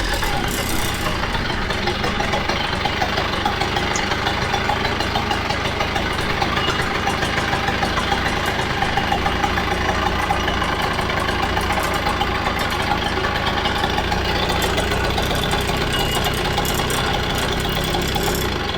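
Kawasaki KD80 80cc two-stroke dirt bike engine idling steadily.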